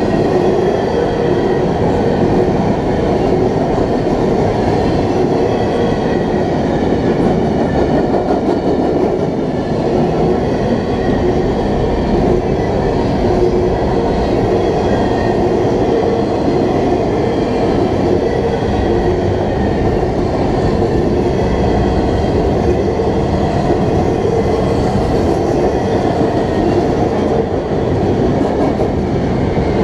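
Empty intermodal well cars of a long freight train rolling past at steady speed: a continuous rumble of steel wheels on the rails, with a faint steady ringing tone over it.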